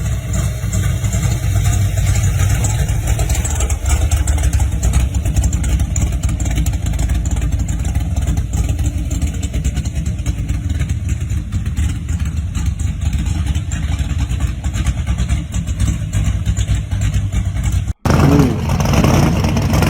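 Classic muscle car engine running with a steady low rumble. A sudden cut about 18 seconds in brings in another car's engine.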